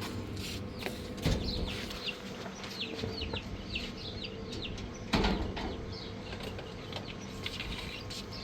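Birds chirping: many short, high chirps in quick succession, with two knocks, the louder one about five seconds in.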